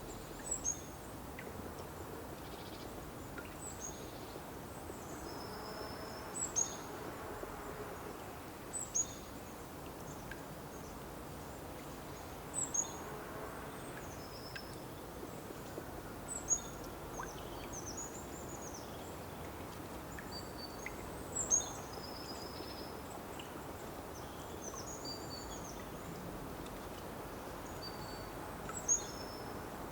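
Small birds calling outdoors: short, high, thin chirps and chip notes come every few seconds, a few of them louder and closer. Beneath them is a steady, even background hiss.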